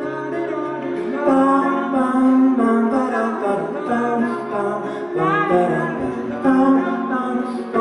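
A live band playing the opening of an acoustic folk song, with melodic notes held and changing and no lyrics yet.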